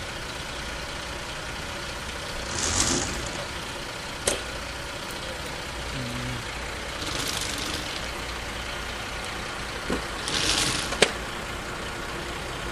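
A vehicle engine idling steadily, with three short hisses and two sharp clicks along the way.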